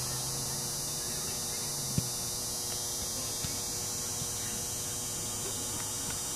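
Steady outdoor background hum and hiss, with one sharp knock about two seconds in.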